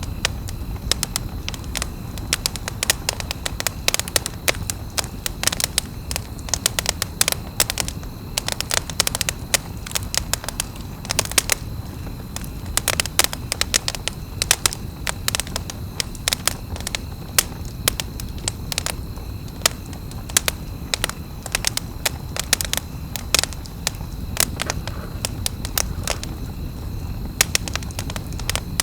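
Wood campfire crackling, with many irregular sharp pops and snaps over a steady low rumble of burning.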